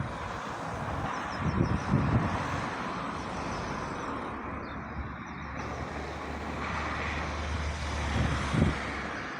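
A motor vehicle running, with a steady rushing noise and a low engine hum through the second half, plus a few low rumbling thumps.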